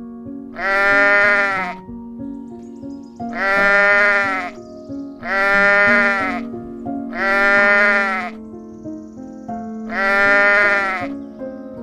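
Five long bleats from a sheep or goat–type farm animal, each lasting about a second, spaced a second or two apart, over background music.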